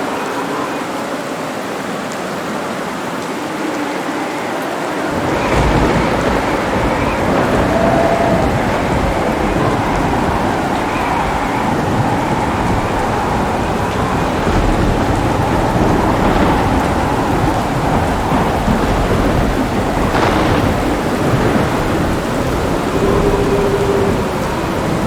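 Steady heavy rain with rolling thunder. The deep rumble sets in about five seconds in and keeps going under the rain.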